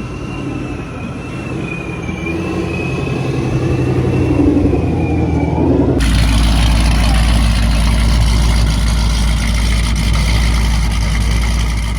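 Car engine sound: an engine running and slowly rising in pitch, then an abrupt cut about halfway to a deeper, rougher engine rumble.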